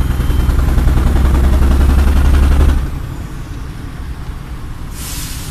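Heavy vehicle engine running loud, then dropping off sharply about three seconds in to a lower running noise. A short burst of hiss comes near the end.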